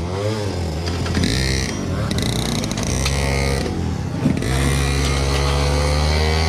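160cc pit bike's single-cylinder four-stroke engine being ridden hard, its pitch dipping and climbing as the throttle is worked. It drops sharply about four seconds in, then climbs steadily under acceleration.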